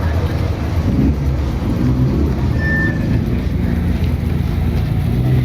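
Car engine running close by with a deep, steady low rumble. A brief high tone sounds about two and a half seconds in.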